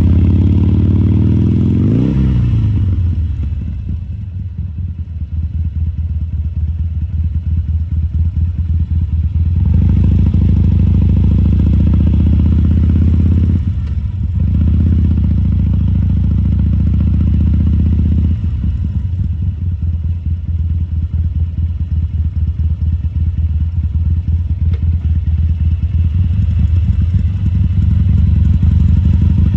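Harley-Davidson Sportster 1200 Custom's air-cooled V-twin running at low speed, with a quick rev and drop about two seconds in. It then loses and gains loudness several times as the throttle is opened and eased off, and ends on a lumpy low-rpm beat.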